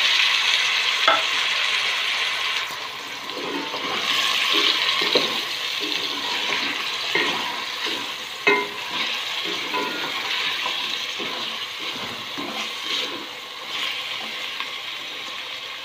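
Sliced potatoes sizzling in hot oil in an aluminium pot, loudest just as they go in and then easing off. A wooden spatula scrapes and knocks against the pot as they are stirred.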